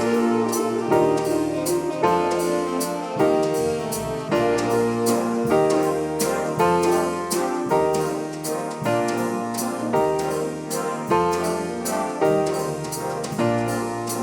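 High school swing band playing a jazz number, with piano and brass over a steady beat.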